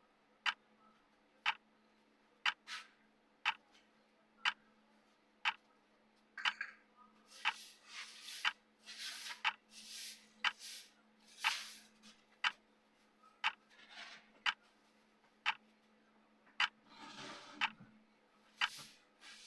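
Clock tick sound effect of a countdown timer: one sharp tick each second, over a faint steady hum. Several short noisy rustling sounds come in between ticks from about seven to twelve seconds in and again near the end.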